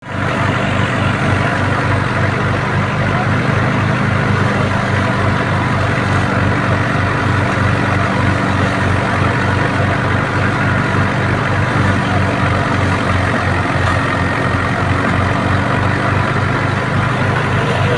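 A tractor's diesel engine running steadily under throttle, with an even low pulse.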